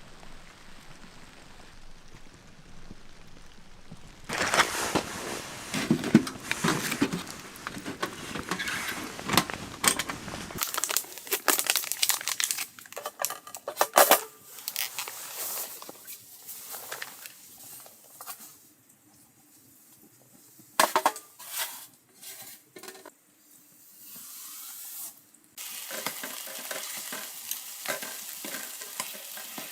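Food frying and sizzling in a pan, with a utensil stirring and knocking against it. The first few seconds hold only a faint hiss, and the sound jumps abruptly a few times.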